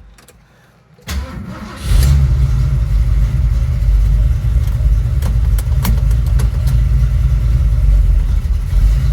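1970 Ford Mustang Mach 1's newly installed engine is cranked by the starter for about a second, then catches and settles into a loud, steady idle with a deep low rumble and a few sharp ticks.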